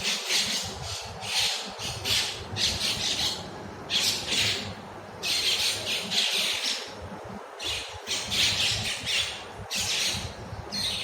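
Birds squawking harshly, in a rapid run of repeated rasping calls, about one or two a second with short gaps.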